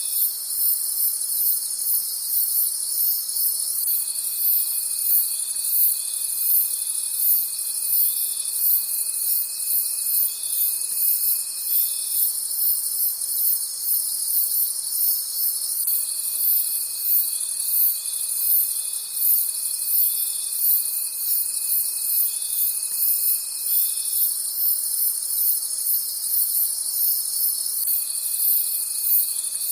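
Chorus of crickets calling at night: a dense, fast-pulsing high trill that goes on without a break. A lower steady note joins it for stretches of about eight seconds, with gaps of about four seconds between.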